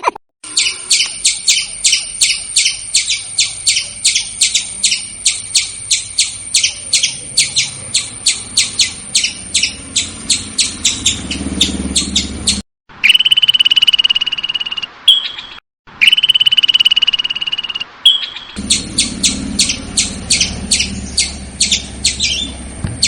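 Squirrel calling: a long run of sharp, high chirps, about three or four a second. Midway the chirps give way to two longer, held high calls, then resume. The sound breaks off abruptly in places.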